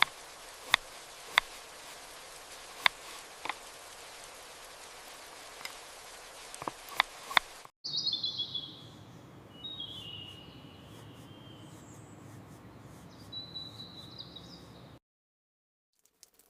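A steady hiss with scattered sharp pops for about eight seconds. It is followed by birds chirping over a low steady background, which stops dead about a second and a half before the end.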